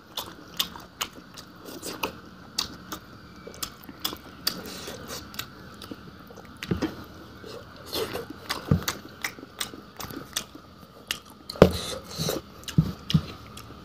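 A person chewing and eating a boiled fish and bamboo-shoot dish close to the microphone: irregular wet mouth clicks and chewing sounds, with a louder run of them near the end.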